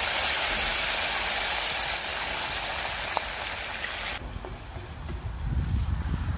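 Sliced pumpkin sizzling loudly as it hits hot oil and rendered cured pork in a wok, a steady hiss that cuts off abruptly about four seconds in. A low rumble builds near the end.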